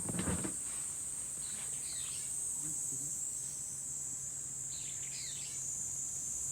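Steady high-pitched insect chorus, with short chirping calls every couple of seconds over it. There is a brief knock at the start and a faint low hum midway.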